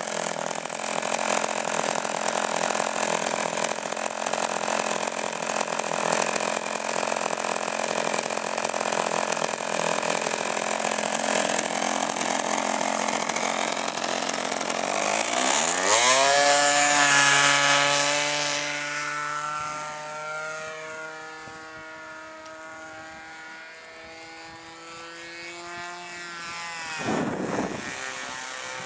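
Radio-controlled model airplane's motor and propeller running at high power, then the plane passes: about halfway through the pitch rises and falls away, settling to a steadier, quieter tone, with another brief pass near the end.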